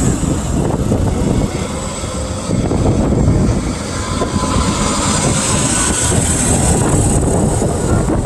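Heavy trucks driving past in a steady low rumble of engines and road noise.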